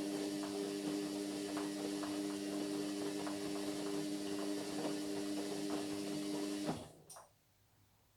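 Indesit MyTime washing machine running with a steady electrical hum and scattered light clicks and ticks. The hum cuts off suddenly with a click about seven seconds in, leaving near silence.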